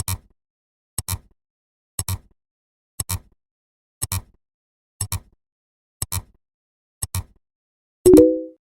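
Sharp double clicks repeating evenly once a second, like a clock's tick. About eight seconds in, a short louder chime sounds, made of several steady tones held together.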